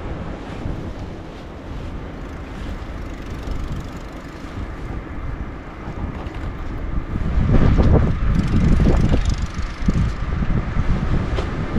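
Wind buffeting the microphone during a blizzard, a low rumbling noise that grows louder for a few seconds about two-thirds of the way through.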